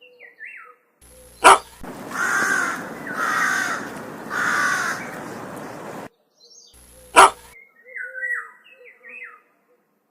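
A crow cawing three times, loud harsh calls about a second apart starting some two seconds in. A sharp click comes just before the calls and another a couple of seconds after them, with faint chirps of small birds around them.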